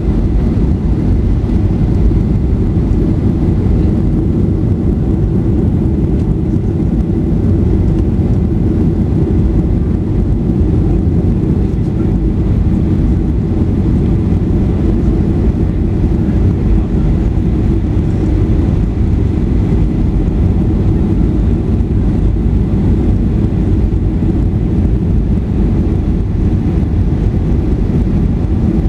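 Steady low rumble of a Boeing 737-800 airliner heard from inside the passenger cabin, even in level throughout.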